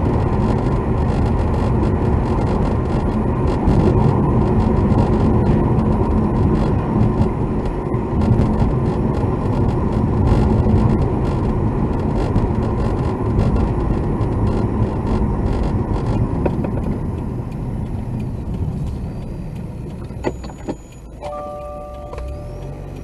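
Car cabin noise while driving: steady road and engine rumble that eases off in the last few seconds as the car slows. Near the end there are a few clicks, then a steady electronic chime of several tones.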